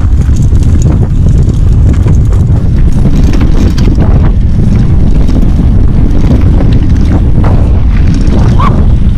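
Heavy wind buffeting the microphone of a camera riding along on a mountain bike: a loud, steady low rumble.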